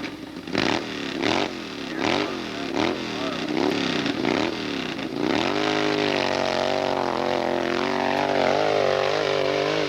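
Hillclimb motorcycle engine revved in quick rising-and-falling blips, then held at steady high revs for the last four seconds or so.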